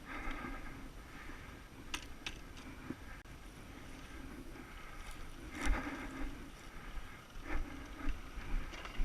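The single-cylinder four-stroke engine of a 2012 Yamaha YZ450F dirt bike with an aftermarket exhaust, blipped in short bursts of throttle with a quieter low-throttle stretch in between, as on a slow trail ride. A few sharp knocks come about two and three seconds in.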